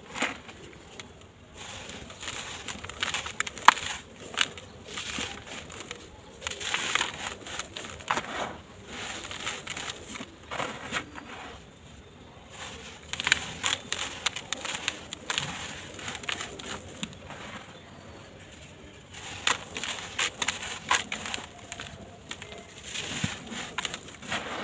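Dry sand-cement blocks crumbling in a tub: gritty crunching and crackling in irregular clusters, with short quieter pauses between them.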